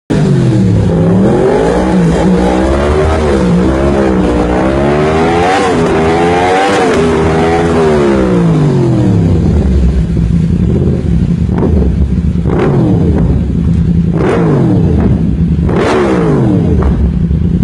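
Yamaha MT-10's crossplane inline-four engine revved through an Akrapovic titanium slip-on and link pipe: the revs rise and fall repeatedly for the first eight seconds or so, then it settles to idle, interrupted by several short, sharp throttle blips.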